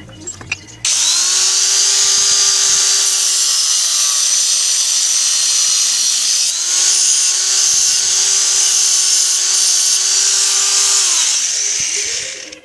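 An electric power tool, a drill or a grinder, working steel for a hose nipple made from an M6 bolt. It starts suddenly and runs at a steady pitch with a bright, hissing cutting noise, then winds down near the end.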